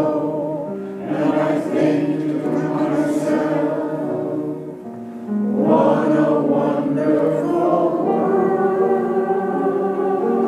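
Amateur mixed choir singing a song in sustained, held chords.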